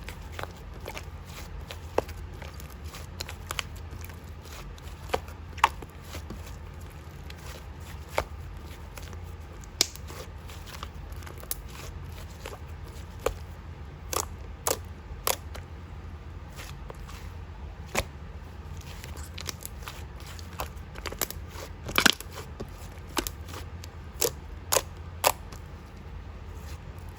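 Scattered sharp clicks and taps at irregular intervals, more of them in the second half, over a steady low hum.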